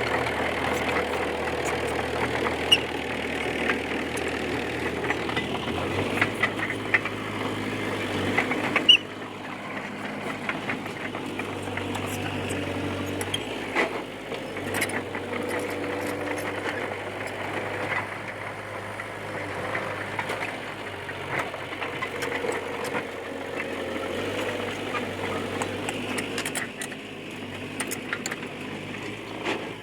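Komatsu D20P bulldozer's diesel engine running steadily while the dozer works, with scattered metallic clanks and clicks from the tracks and blade. The sound drops in level about 9 seconds in.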